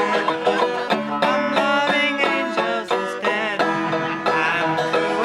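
A banjo being picked: a fast, unbroken run of plucked notes.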